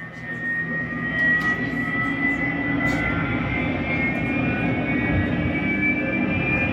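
Recorded sound effect of a jet airliner's engines running, used to mark the next leg of a pretend flight. The roar builds over the first second, then holds steady under a high whine that rises slowly in pitch.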